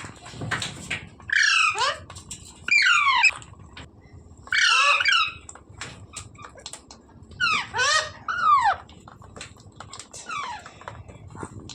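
Green parrot calling in short repeated bursts, each a quick run of falling notes, about six bursts a second or two apart.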